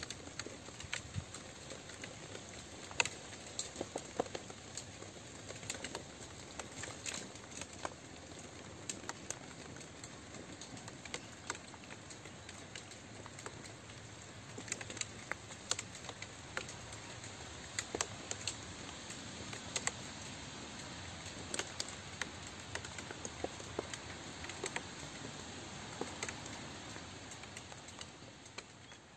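Steady rain: a soft even hiss with many sharp, irregular drop ticks, beginning to fade out near the end.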